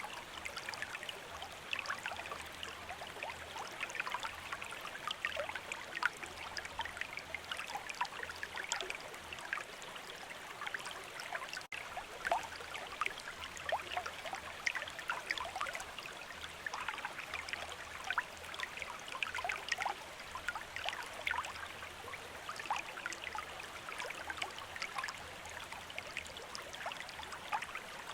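Running stream water, a steady babble full of small splashes and bubbling, with a momentary dropout just under halfway through.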